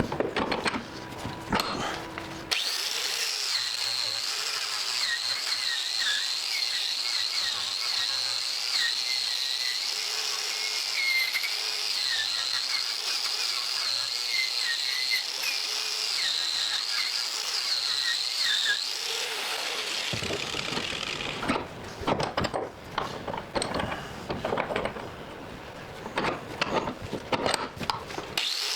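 A handheld power tool running a steel wire brush against a railroad spike to strip rust. The motor whines steadily, its pitch wavering as the brush bears on the steel, over a hiss of wire on metal. Near the end it gives way to irregular scraping and knocking before the whine starts again.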